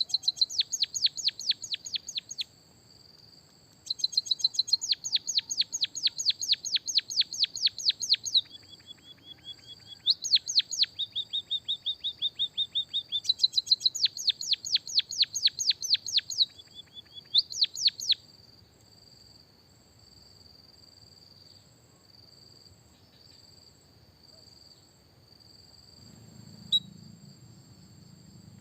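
Songbird trilling in bouts of rapid, evenly repeated descending chirps, about five a second, with a few short flatter buzzy notes between. The bouts stop about 18 seconds in. A steady high, thin insect-like whine runs underneath throughout, and there is a single click near the end.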